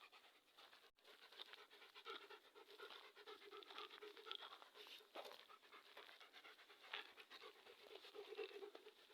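A dog panting in quick, repeated breaths, faint.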